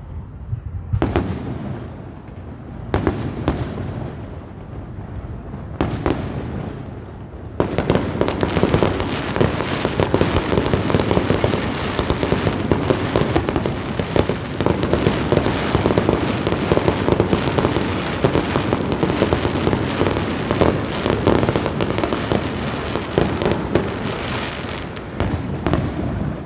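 Fireworks going off: a few separate sharp bangs at first, then, about a third of the way in, a dense non-stop crackle of rapid pops that keeps on to near the end.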